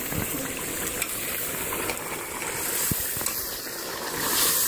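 Chicken and spices sizzling in hot oil in a pressure cooker while being stirred with a steel ladle, with a few light clicks of the ladle against the pot. The sizzle grows louder near the end as the spices are turned into the oil.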